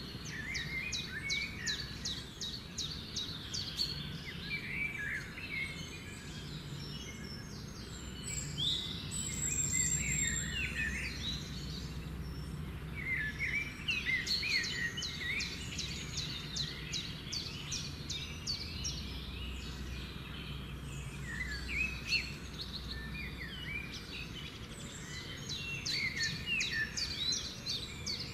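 Small birds chirping and trilling in bouts of quick repeated notes, with short pauses between bouts, over a steady low hum.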